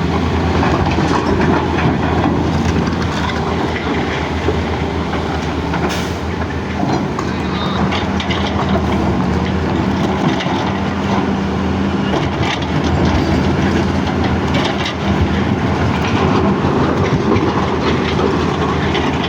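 CAT excavator's diesel engine running steadily under load, with scattered knocks and rattles of rock being handled.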